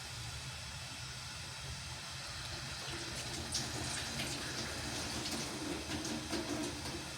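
Steady rushing noise, like running water, with a low hum beneath it and a few faint ticks.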